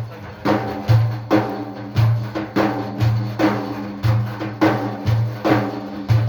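Hand-beaten frame drums playing a steady rhythm without singing: deep strokes about twice a second with lighter, sharper strokes between.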